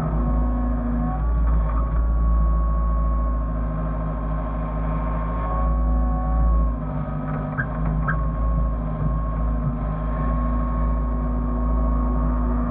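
Hyundai hydraulic excavator running as it works: the diesel engine's steady low rumble under a high hydraulic whine that shifts in pitch and level a few times as the load changes.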